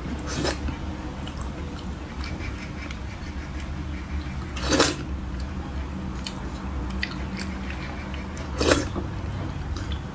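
Eating sounds: soft chewing clicks, with three louder brief crunches about four seconds apart, over a steady low hum.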